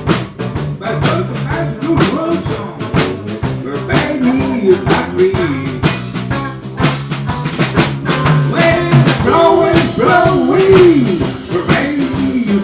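A live band playing a blues-style song: a drum kit keeping a steady beat with frequent cymbal and snare hits, a bass line underneath, and a lead melody that slides up and down in pitch over the top.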